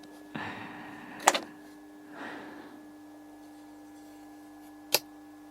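Handling noises from a part being moved: a short rubbing sound with a knock about a second in, a softer rustle, then a single sharp click near the end, over a faint steady electrical hum.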